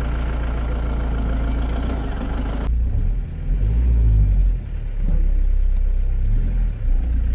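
Mahindra Scorpio's engine running steadily. About three seconds in, the sound turns abruptly duller and a deep, uneven rumble rises and falls.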